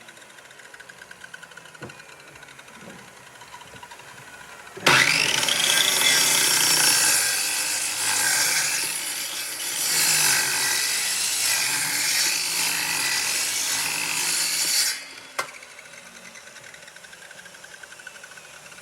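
A power tool working wood: it starts suddenly about five seconds in, its pitch rising as it spins up, runs loud for about ten seconds, then stops. Faint scraping before and after.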